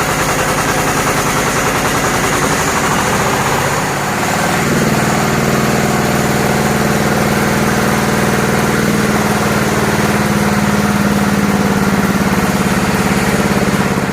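Small stationary engine running steadily with an even beat. About four seconds in, the level dips briefly; a steady low hum then joins the engine, and it runs a little louder to the end.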